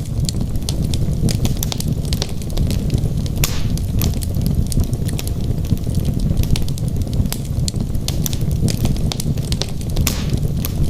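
Wood logs burning in a fireplace, crackling: frequent sharp pops and snaps over a steady low rumble of the flames, with a brief hiss twice, about three and a half seconds in and near the end.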